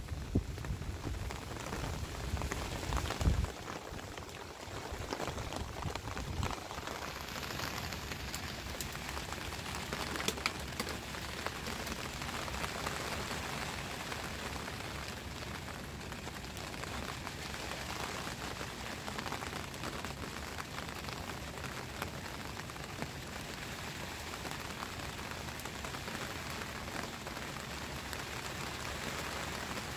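Steady rain falling, an even hiss throughout, with a few low thumps in the first few seconds.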